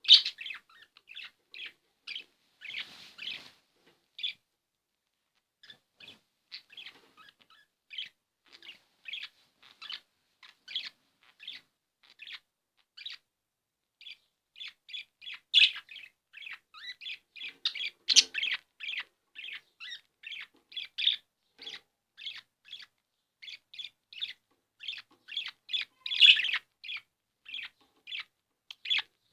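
Pet budgerigars chirping in quick, sharp notes, a few a second with brief gaps: the agitated calling of budgies in breeding excitement. A few louder squawks stand out, one right at the start and others about two-thirds of the way through and near the end.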